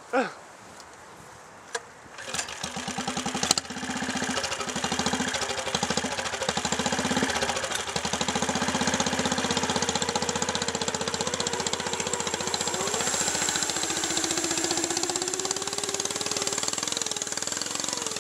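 Small lawn tractor engine being cranked about two seconds in, catching a second or so later and then running steadily, its pitch climbing near the end. It is restarting after stalling in mud, with an air filter the driver calls soaked and waterlogged.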